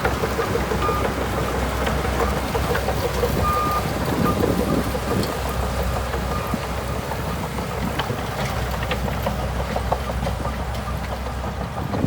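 Shantui DH17C2 crawler bulldozer working: its diesel engine runs steadily, with a continuous rattle from the machine.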